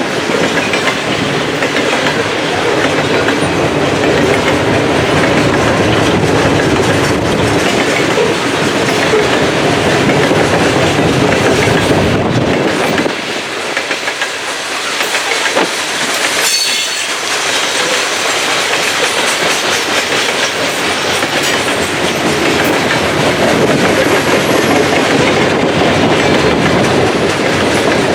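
Freight train of coal cars rolling past, a continuous rumble with wheels clacking over the rail joints. The low rumble eases for a few seconds past the middle.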